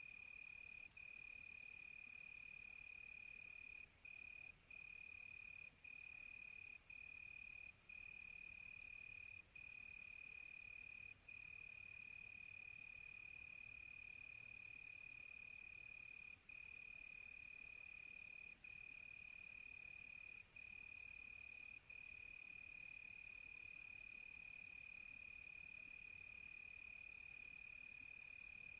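Crickets trilling at night: one steady, high, continuous trill broken by brief gaps every few seconds, with a fainter, higher pulsing insect chirp above it for part of the time.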